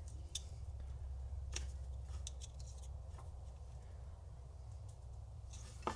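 A few faint, sharp clicks and scrapes of a screwdriver prying at a transmission output-shaft seal, over a low steady hum.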